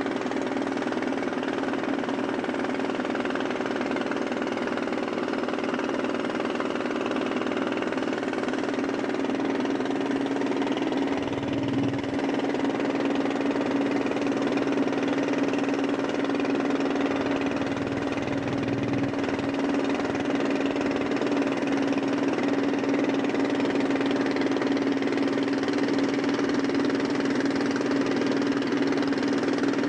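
Boat taxi's engine running steadily underway, a constant hum with even noise over it and a couple of brief low surges partway through.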